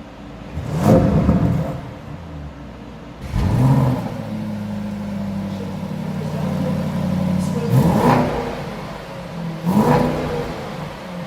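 Car engine revved in four short blips, each a quick rise in pitch, over a steady running note in between.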